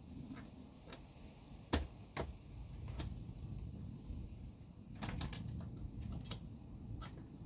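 Light, irregular clicks and taps of small hard model parts being handled while fitting Tamiya truck suspension to a dolly frame. A sharper knock comes a little under two seconds in, and a quick run of clicks about five seconds in, over a low steady hum.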